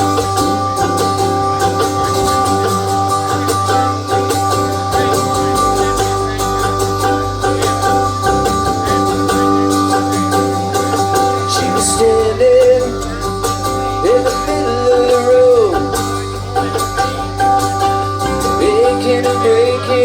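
Live band playing the instrumental intro of a country-rock song, with guitar. About halfway through, a lead line with bending notes comes in over the held chords.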